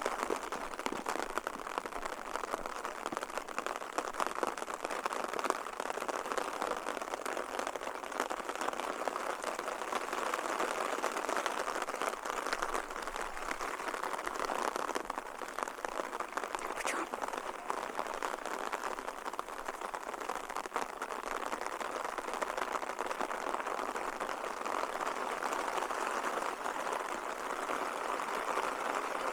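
Steady rain falling, heard as an even hiss of many fine drops.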